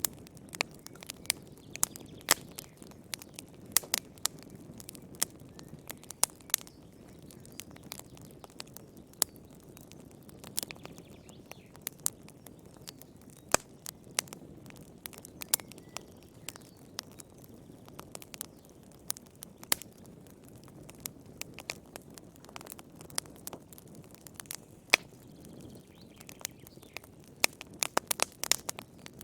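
Wood fire burning in a fireplace: a low, steady rush with sharp, irregular crackles and pops, coming thick and fast near the end.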